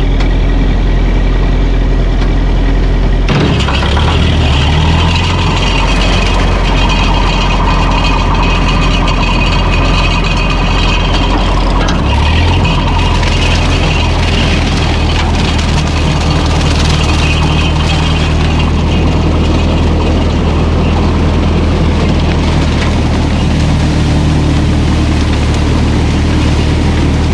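Ferguson tractor engine running steadily, its pitch stepping up about three seconds in and shifting again about twelve seconds in.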